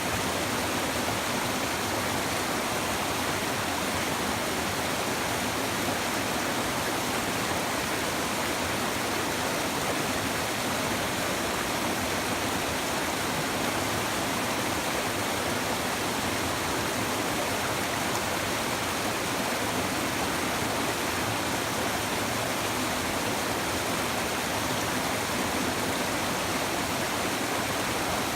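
Babbling river water flowing steadily, an even rushing and splashing with no breaks.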